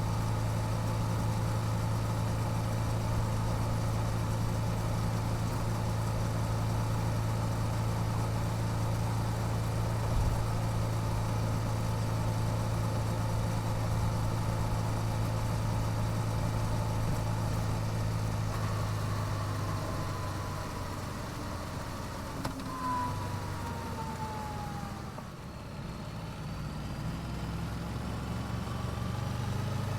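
Yamaha YZF-R7's parallel-twin engine through its stock exhaust, running at a steady pitch, then easing off and going quieter about two-thirds of the way through, with a falling whine, before picking up again near the end.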